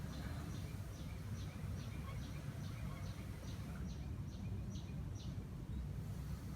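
A bird calling a steady series of short, high, downward notes, about two and a half a second, that stops about five seconds in, over a steady low rumble.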